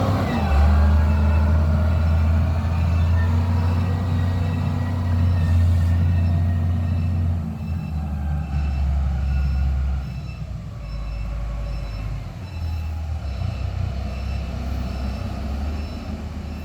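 Heavy diesel vehicle engine running with a deep, steady drone that drops in level about halfway through. From about six seconds in, a reversing alarm sounds a steady series of high beeps.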